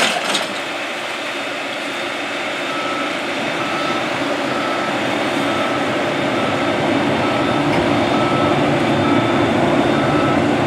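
Combine harvester's engine running, getting louder toward the end, with a reversing alarm beeping about once a second from a few seconds in. A short clatter right at the start.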